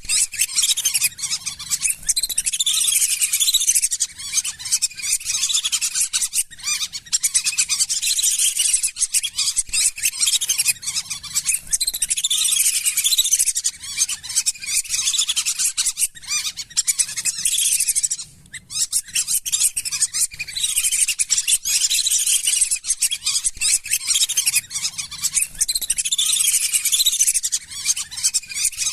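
A flock of lesser whistling ducks calling: many shrill, high whistles overlapping almost without a break, with a brief lull about two-thirds of the way through.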